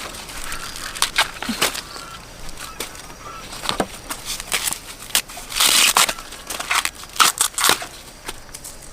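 Crunching and snapping: a series of sharp cracks, with one longer, louder crunch about six seconds in.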